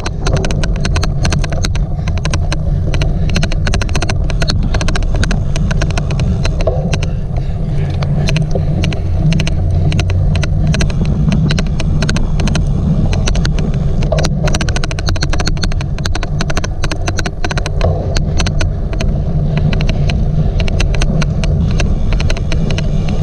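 Rumble and wind on the microphone while a cyclocross bike is ridden, with a constant irregular odd clicking throughout.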